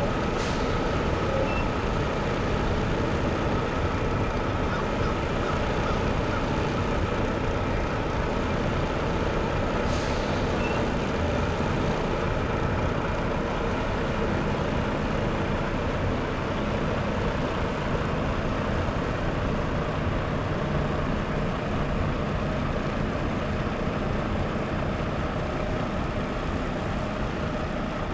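Tractor-trailer's diesel engine running steadily at low speed while the truck is maneuvered, with two brief sharp sounds, one near the start and one about ten seconds in.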